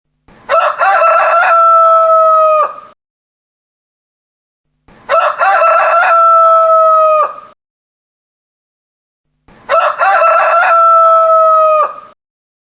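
Rooster crowing three times, each crow about two and a half seconds long, with roughly two seconds of silence between them. Each crow opens with a few short broken notes and ends in a long held note that drops off sharply.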